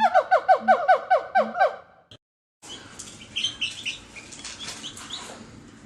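An animal calling in a quick run of short, falling notes, about four a second, for the first two seconds. After a brief break, birds chirp in short high notes.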